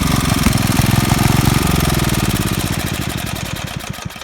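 Garden-tractor go-kart's small engine running with a steady, rapid firing beat, fading away over the last couple of seconds.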